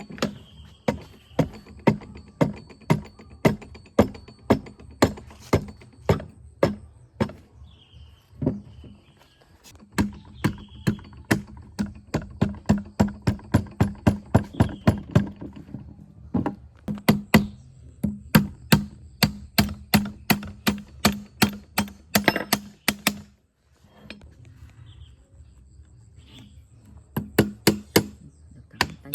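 Repeated sharp knocks, about two to three a second in long runs, over a low steady hum, with a short break about two-thirds of the way through.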